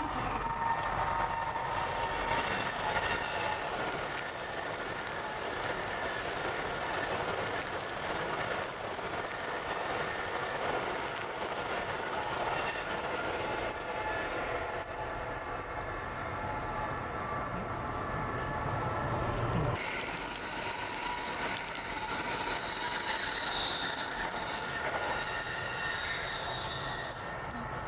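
Electric train running on a curve for about half a minute, its steel wheels squealing against the rails with thin high tones over the steady running noise.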